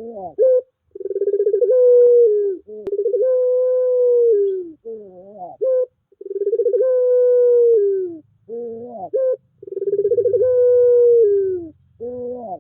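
Puter pelung dove cooing. Short rising notes lead each time into a long rolling coo of about a second and a half that sags in pitch at the end, and this happens four times.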